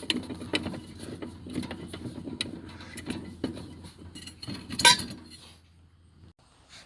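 Metal jack stand being lowered: a run of irregular ratcheting clicks and clinks of steel parts, with one loud metal clank about five seconds in, then the clatter stops. A low steady hum runs underneath and cuts off about a second later.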